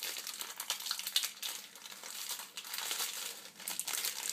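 Crinkling and crackling of a detergent-tablet wrapper being picked and torn open by hand, in irregular bursts.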